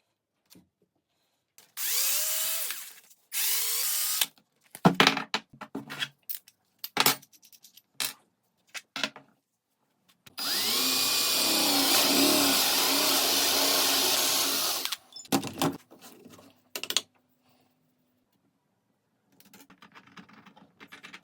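Electric power tool motor running in two short bursts, each spinning up as it starts, then a longer run of about five seconds. Sharp clicks and knocks of wooden pieces are handled in between.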